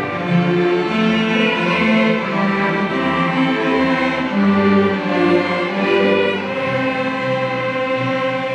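School string orchestra playing: violins over cellos and basses in a moving line, settling onto longer held notes near the end.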